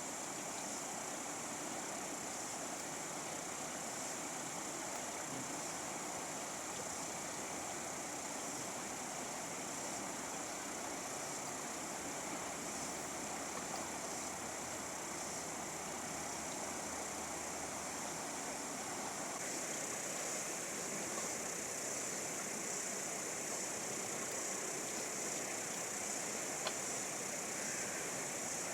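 Fast-flowing river water rushing steadily, an even noise without pitch or rhythm. A single faint click sounds near the end.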